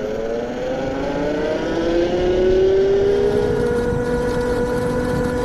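Yozma IN 10 Pro electric mini bike's mid-drive motor whining as the bike pulls away, the pitch rising over the first two or three seconds and then holding steady, over a low rumble of tyres and wind.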